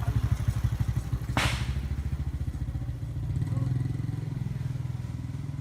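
A small engine running steadily with a fast, even low throb, and a short hiss about a second and a half in.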